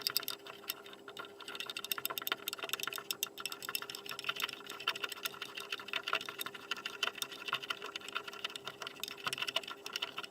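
A whisk beating milk, sugar, cocoa powder and vanilla in a saucepan: rapid, irregular clinking and ticking of the wires against the pan.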